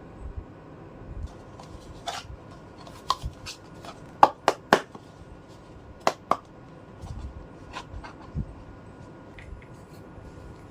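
Plastic toy kitchen pieces being handled and cut with a toy knife: a series of sharp plastic clicks and taps, with a quick run of three near the middle and a pair soon after.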